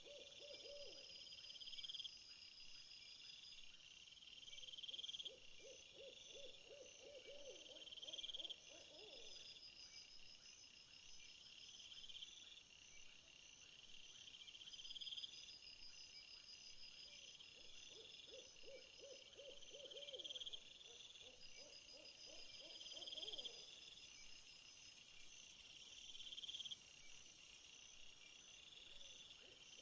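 Faint nature ambience of calling insects, with high chirping phrases repeating every two to three seconds. A lower, rapidly pulsed trill comes in briefly at the start and twice more, each time for a few seconds. A high buzz joins for about six seconds in the second half.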